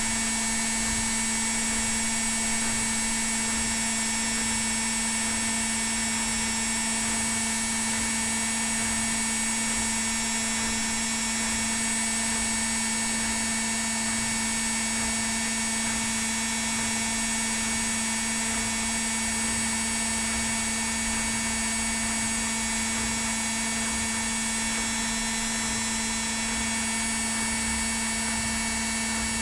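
Indesit WIL82 washing machine on its spin cycle, the motor and drum running at a steady speed with an even hum and whine that does not change.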